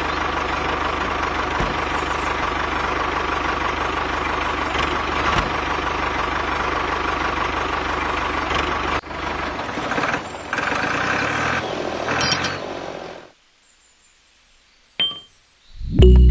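Mini tractor engine running steadily. About nine seconds in the sound changes and drops, then cuts off a few seconds later. Music begins near the end.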